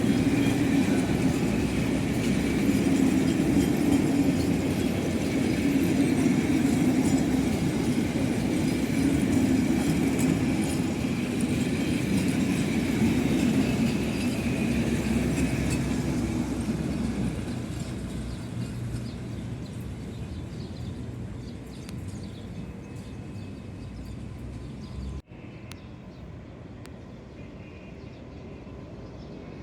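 GE diesel-electric locomotive hauling a passenger train past at close range, engine drone and running noise steady, then fading away as it recedes. About 25 s in it cuts abruptly to a much quieter background.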